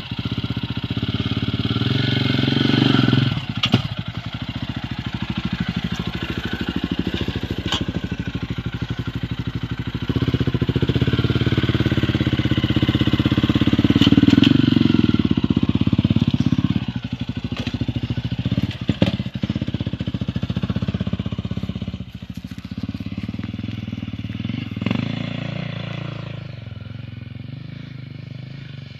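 Motocross motorcycle engine running and revving, its pitch rising and falling with the throttle, then fading away near the end. A few sharp knocks stand out over it.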